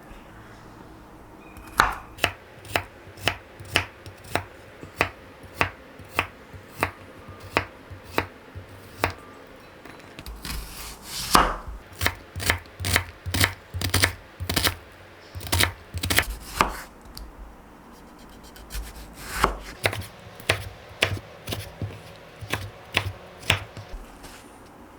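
Kitchen knife chopping on a cutting board in a long run of sharp strokes, about two a second at first and quicker in the middle, with a short pause about three-quarters of the way through before it resumes.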